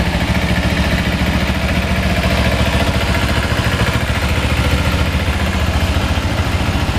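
2009 Kawasaki Ninja 250R's parallel-twin engine idling steadily, with an even, rapid pulse.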